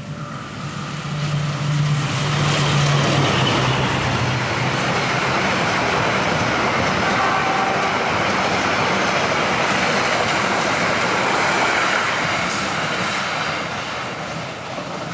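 Diesel-hauled express passenger train passing at speed close by: the locomotive's engine drone in the first few seconds, then the steady rush of the carriages' wheels on the rails, easing off near the end.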